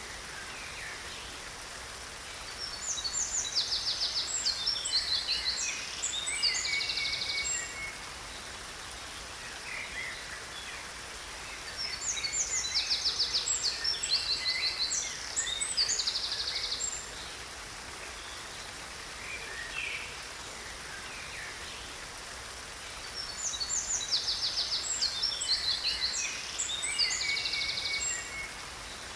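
A songbird singing three long, similar bouts of rapid chirps and trills about ten seconds apart, over a steady rush of falling water from a waterfall.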